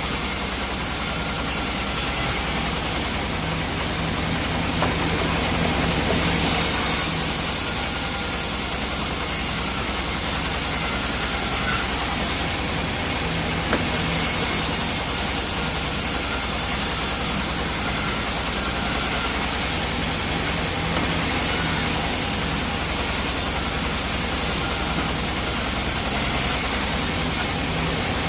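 Sawmill machinery running steadily: a constant low hum under a dense hiss. The highest part of the hiss dies away for a few seconds about every seven seconds, then returns.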